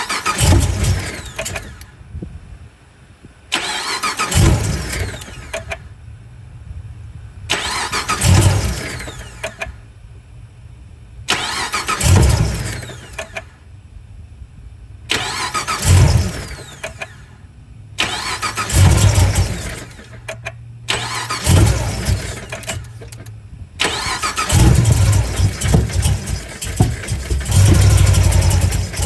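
Car engine being started again and again from cold, seven short bursts a few seconds apart that each wind down and stop, until about three-quarters of the way through it keeps running. A hard cold start.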